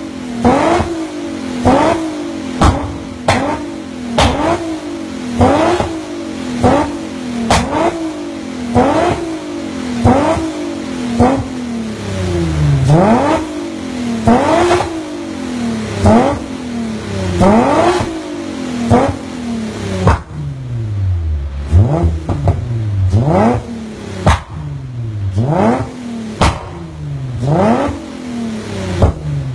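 Nissan 350Z's 3.5-litre V6, running on a Unichip piggyback tune, revved repeatedly in quick throttle blips heard through its exhaust, each rise in pitch falling back down. A sharp crack comes at the top of many blips. From about midway the revs fall lower between blips, and the blips come further apart.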